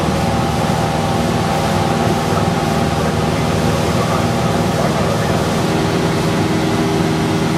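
Cessna 172's piston engine and propeller droning steadily in cruise, heard inside the cockpit: a constant set of engine tones over a loud rush of air noise.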